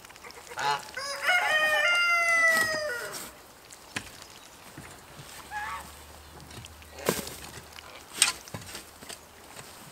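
A rooster crows once near the start, one long call of about two seconds that rises, holds and falls away. A shorter call and a few sharp knocks follow.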